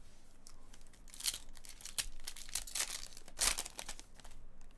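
Wrapper of a trading-card pack crinkling and tearing as it is ripped open by hand: a run of sharp crackling rips, the loudest about three and a half seconds in.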